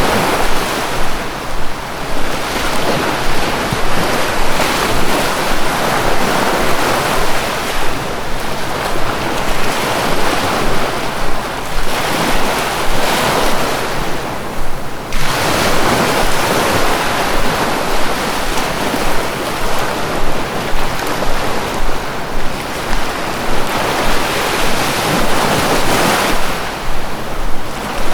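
Sea waves breaking and washing on a shore, a continuous surf noise that swells and eases every few seconds, with a brief lull about halfway through.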